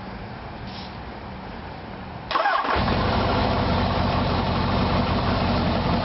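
A 1977 Kawasaki KZ1000 inline-four, fitted with 1075 big-bore pistons, stage 2 cams and 35 mm CR carbs, is started on the electric starter without choke or clutch. About two seconds in, the starter cranks briefly, the engine catches within about half a second and settles into a steady idle.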